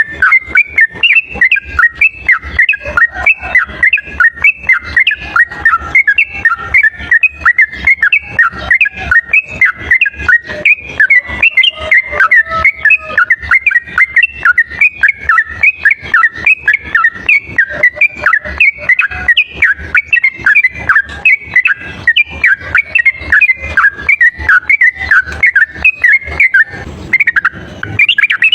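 Sooty-headed bulbul (trucuk) singing a loud, unbroken rapid-fire chatter of short whistled notes, about four a second, with a brief break near the end.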